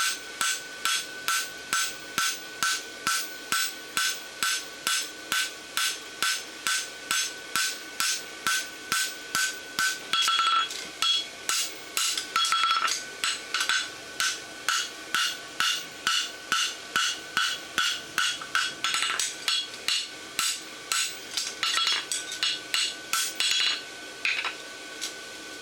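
Hammer blows on hot steel bar over an anvil, flattening a horseshoe branch: a steady run of about two and a half ringing strikes a second, with a few short pauses.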